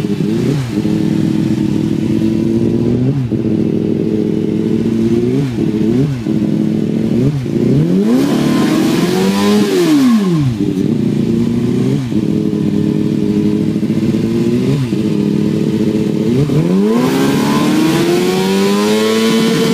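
Engine revved hard and held against its rev limiter, around 14,000 rpm, the pitch flat and steady with brief stutters. Twice, about eight and seventeen seconds in, the revs drop away and climb back up to the limiter.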